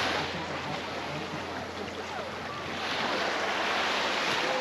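Surf washing onto the shore, easing off and then swelling again about three seconds in.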